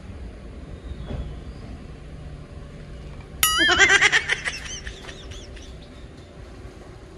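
A bird calls loudly once, about three and a half seconds in: a sharp rising note, then a quick run of repeated notes that fade out over about two seconds, over a steady low background noise.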